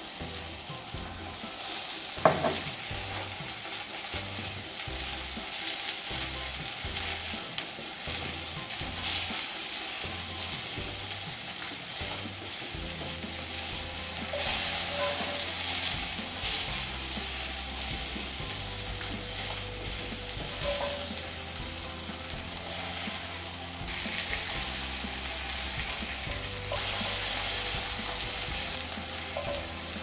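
Tomato pieces sizzling in a hot cast-iron skillet, a steady frying hiss that swells louder about halfway through and again near the end. One sharp knock a couple of seconds in.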